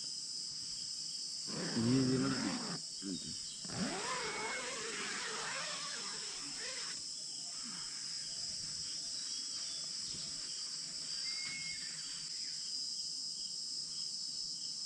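Steady high-pitched chorus of night insects, crickets, running throughout. A brief low call sounds about two seconds in, and a wavering gliding sound follows around four seconds in.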